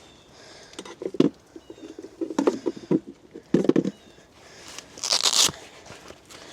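Crunching and rustling in leaf litter and sticks, in irregular clusters like footsteps, with a brief hissing swish about five seconds in.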